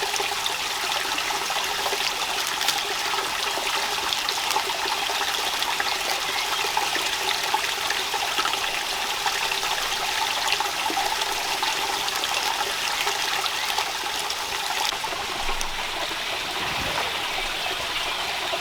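Steady rush of running water with a fine, spattering texture.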